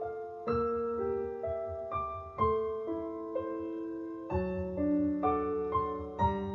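Slow, gentle piano intro to a ballad: single melody notes and soft chords, each struck and left to ring out.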